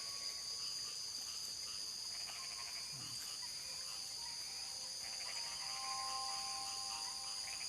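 Steady, high-pitched chorus of night insects, with patches of fast pulsed trills and a few faint thin tones in the second half.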